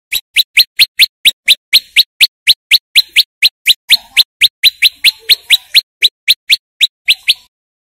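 Song of a male prenjak lumut: a loud, rapid, even series of sharp upward-sweeping notes, about four a second, which stops abruptly near the end.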